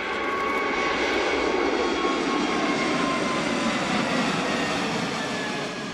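Airbus A220-300's Pratt & Whitney PW1500G geared turbofan engines running, heard inside the passenger cabin: a steady rush with a high whine that sinks slightly in pitch.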